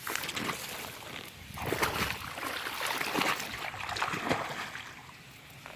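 Irregular water splashing and sloshing as a hooked fish thrashes at the surface close to the bank, heaviest in the middle, then dying away near the end.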